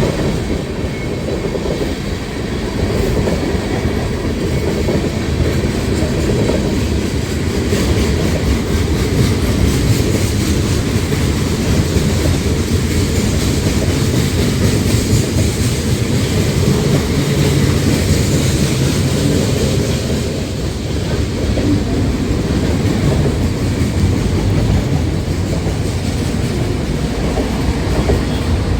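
Freight train rolling past, a loud, steady rumble of cars and wheels on the rails.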